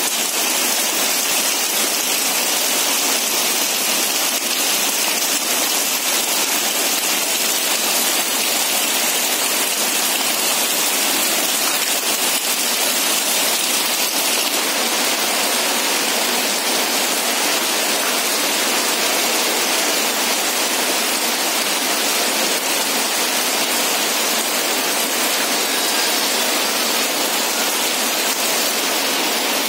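Heavy rain falling steadily onto a corrugated roof, leaves and wet ground, with water streaming off the roof edge: a loud, even hiss.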